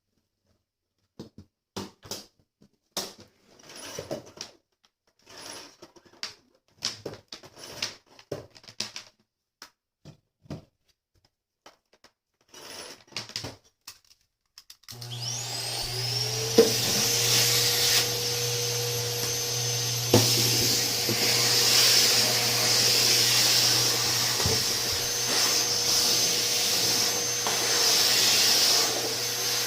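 Scattered clicks and knocks of handling for about the first half, then a canister vacuum cleaner switched on about halfway through, its motor whine rising for a second or two and settling into a steady run, with a few knocks.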